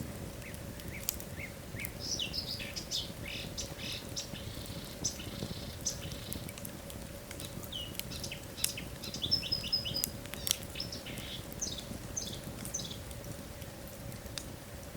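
Wood fire in a fireplace crackling, with sharp pops throughout and a run of short, high chirps and squeaks in the middle, over a faint steady hum.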